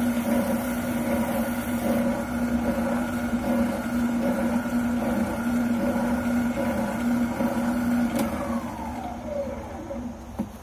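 Wilton oscillating sander running with a steady motor hum and the rasp of sanding on the buttplate. About eight seconds in it is switched off and its whine falls in pitch as the motor spins down, ending with a small click.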